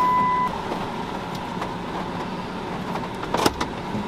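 Steady hiss of rain heard inside a Dodge pickup truck's cab, with a low hum under it. A steady electronic tone stops about half a second in, and a short cluster of clicks comes a little past three seconds.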